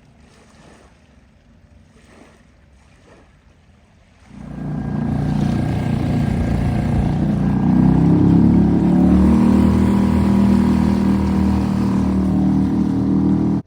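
A few faint splashes at first, then a Suzuki 2.5 hp four-stroke outboard comes in loud about four seconds in. It runs steadily, picks up revs a couple of seconds later and holds there, pushing the kayak along.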